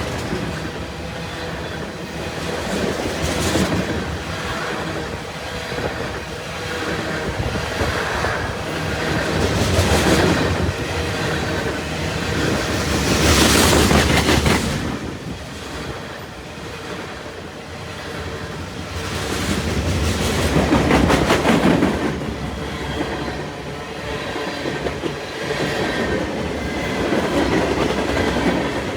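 CN train A434's railcars rolling past at speed, a continuous rolling clatter of wheels on rail that swells louder and eases off several times as the cars go by.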